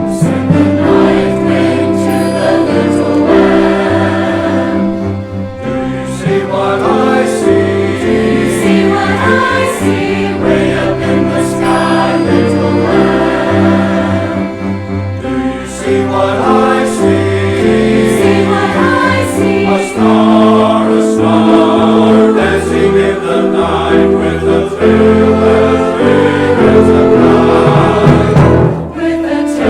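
Church choir singing in full chorus, accompanied by orchestra.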